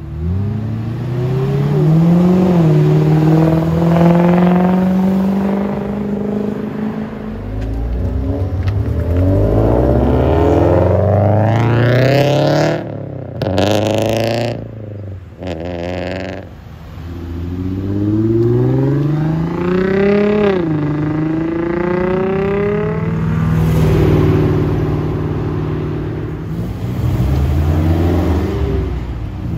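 Modified cars accelerating hard away one after another. Each engine's pitch rises as it revs up and then drops at a gear change.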